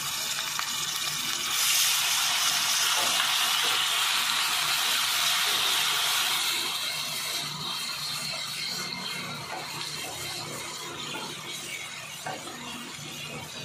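Ginger-garlic paste sizzling in hot oil with lightly golden fried onions in an aluminium pot, stirred with a wooden spatula. The sizzle grows louder about two seconds in, then fades gradually after about six seconds as the oil settles.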